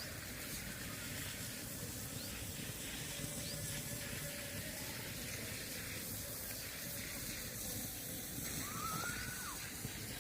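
Steady rushing outdoor background noise, with a short whistled call near the end that rises, holds briefly and then drops.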